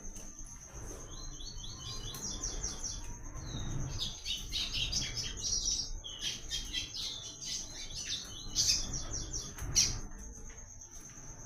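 Papa-capim (coleiro), a Sporophila seedeater, singing in quick runs of short whistled notes. A steady thin high buzz sounds behind it.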